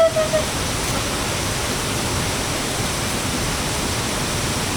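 Steady, even rush of water. A held, pitched call fades out in the first half second.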